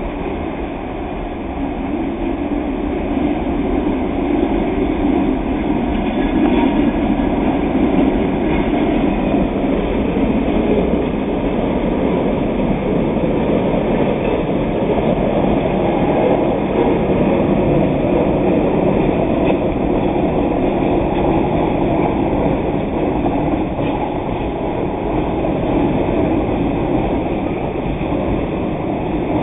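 Freight train rolling past: the diesel locomotive's engine and the rumble of the cars on the rails, a steady dense noise that swells a little after the first couple of seconds and holds.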